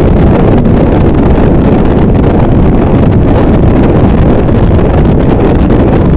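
Harsh noise wall: a dense, unchanging wall of distorted static, heaviest in the low and lower-middle range, with no rhythm or breaks.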